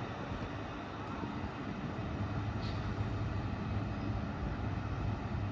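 A train running at the station: a steady rumble, with a low, even hum setting in about two seconds in as it gets slightly louder.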